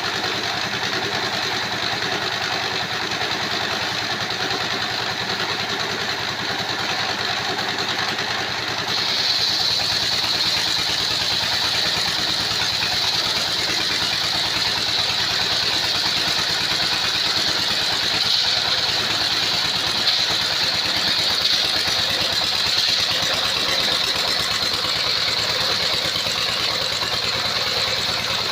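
Engine-driven circular sawmill running steadily. About nine seconds in, a high steady whine sets in and the sound grows a little louder.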